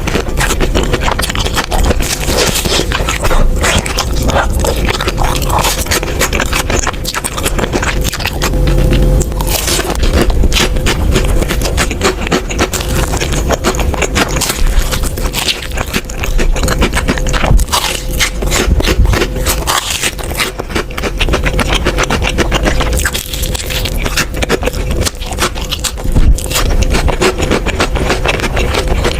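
Close-miked crunchy chewing and biting of a fried corn dog, an irregular run of crackling crunches. A faint steady hum lies underneath.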